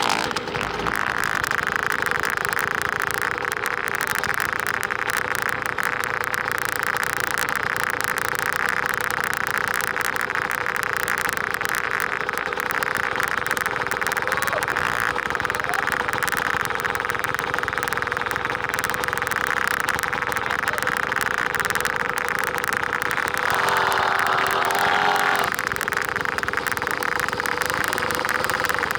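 50cc dirt bike engine running steadily, with a brief change in its note about three quarters of the way through.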